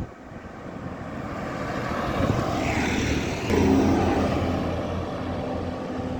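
A heavy vehicle passing at speed: road and engine noise builds for about three seconds, peaks about halfway through, then gives way to a steady low diesel-like engine drone as it goes by.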